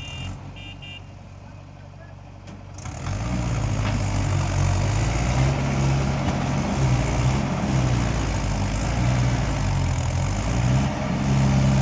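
Mahindra tractor's diesel engine running quietly, then revving up about three seconds in and running hard at high throttle.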